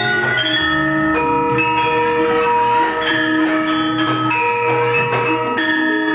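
Javanese gamelan music: metal-keyed instruments and gongs ringing in overlapping, sustained notes that change every half second or so.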